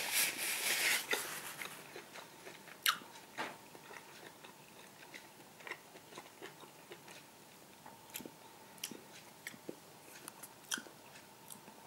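A person chewing a bite of grilled sausage close to the microphone: faint, scattered wet mouth clicks, after a soft hiss in the first couple of seconds.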